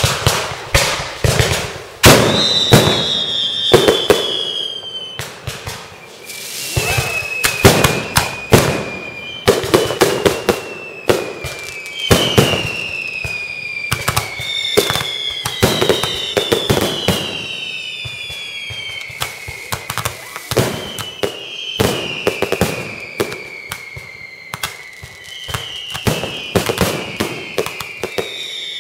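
Fireworks display going off: a quick run of sharp bangs and crackle, with whistling shells whose whistles each fall slowly in pitch, overlapping one after another. It starts suddenly.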